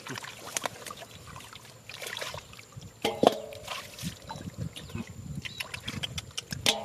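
Water splashing and trickling in shallow water, in many irregular sharp splashes as fish are handled, with a brief pitched sound about three seconds in.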